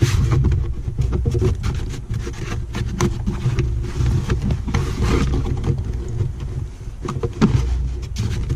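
Plastic interior trim being worked loose by hand: irregular clicks, knocks and rattles of the kick plate and sill trim, over a steady low rumble.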